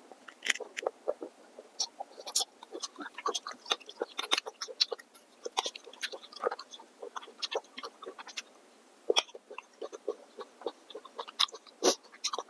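Close-miked eating sounds: irregular wet smacks and clicks of chewing, with a short lull about eight seconds in.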